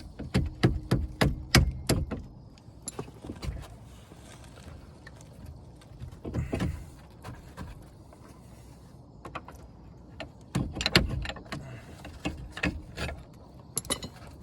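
Metal clicks, knocks and clinks from a Jeep Cherokee's front brake caliper being worked loose and pulled off. They come in bursts, the busiest at the start and again about eleven seconds in.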